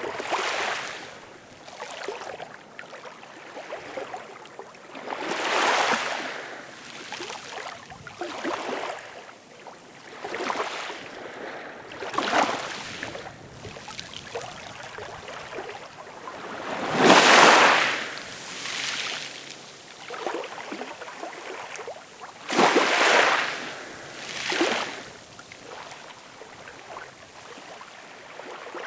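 Ocean waves breaking and washing in on the shore, one surge of surf every few seconds, with the biggest wave about 17 seconds in.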